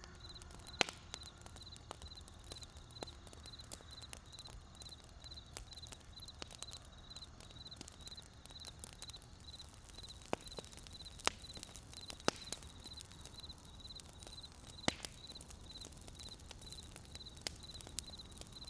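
Wood campfire crackling, with irregular sharp pops and snaps over a faint low hiss. A faint high chirp repeats several times a second throughout.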